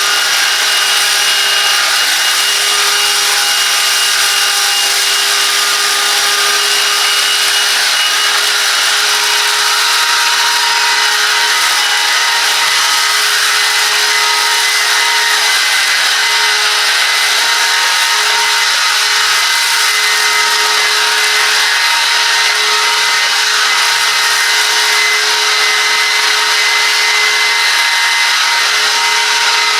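Silvercrest 18 V cordless 2-in-1 vacuum cleaner running in turbo mode: a steady, high motor whine with a rush of airflow, which winds down as it is switched off at the very end.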